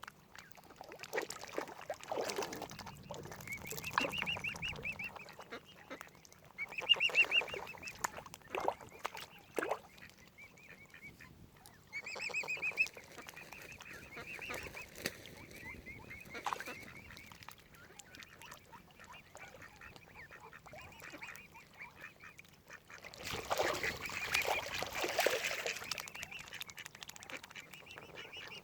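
Waterfowl calling: many short, repeated calls throughout, with a louder, noisier stretch about 23 seconds in.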